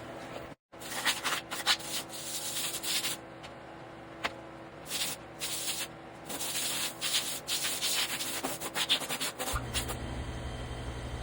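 Gasket material being cut out: irregular scraping and rubbing strokes with short pauses between them.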